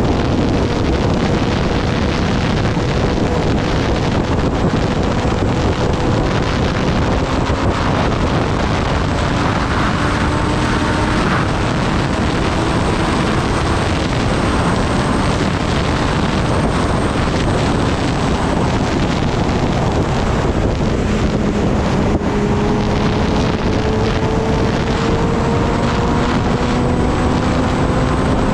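Heavy wind rush over the microphone while riding a Kawasaki Ninja ZX-10R at speed, with its inline-four engine note climbing slowly underneath. About two-thirds through, the engine note drops to a lower pitch and starts climbing again.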